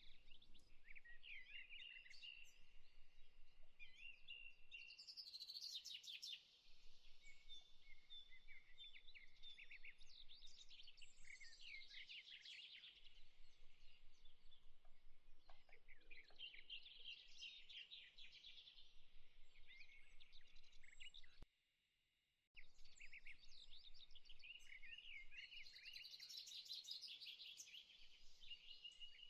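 Faint birdsong: overlapping quick chirps and trills from several birds, over a soft hiss. It cuts out completely for about a second a little past the two-thirds mark, then resumes.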